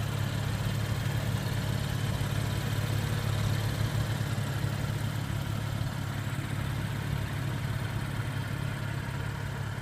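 Car engine idling steadily: a low, even hum.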